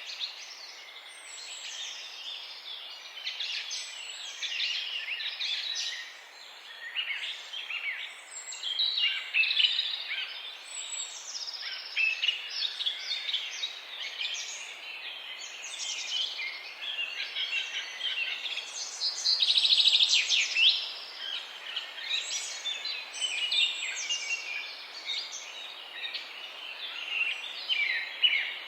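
Many songbirds chirping and singing at once in a morning chorus, short calls and trills overlapping without pause, with a louder flurry of song about two-thirds of the way through.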